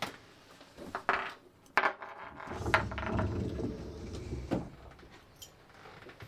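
A series of sharp knocks and clatters of hard objects, with a low rumbling noise for about two seconds in the middle.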